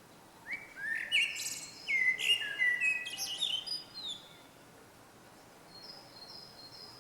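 A small songbird singing one fast, varied phrase of clear whistled and chirped notes lasting about three and a half seconds, followed near the end by three faint high notes.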